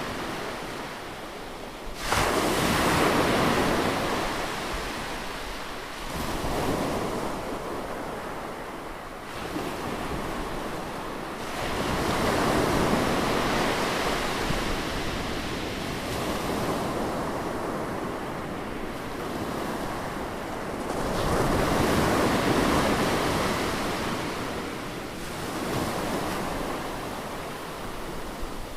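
Ocean waves breaking in repeated swells of rushing noise, each rising and fading over a few seconds; the loudest surge starts abruptly about two seconds in.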